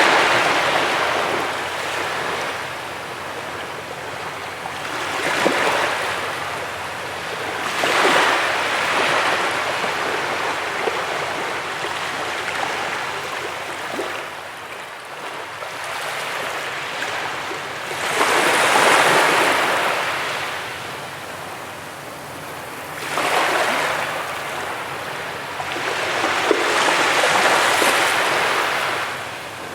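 Sea waves breaking and washing up a beach: a steady rush that swells and falls back in surges a few seconds apart, the biggest about nineteen seconds in.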